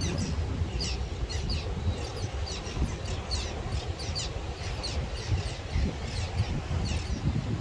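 A small bird calling in repeated short, high, falling chirps, over a low rumble of wind on the microphone and breaking surf.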